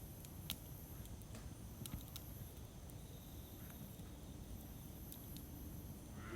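Wood campfire crackling: sharp pops about half a second, a second and a half and two seconds in over a low steady rumble of burning.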